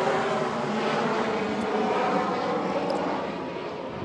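Helicopter flying overhead, a steady engine and rotor drone that begins to fade about three seconds in.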